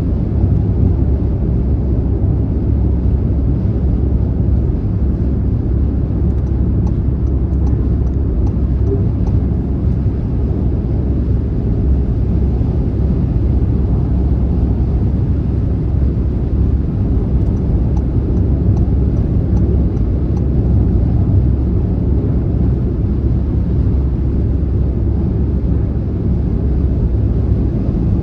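Car driving at highway speed: a steady, even low rumble of tyre and road noise.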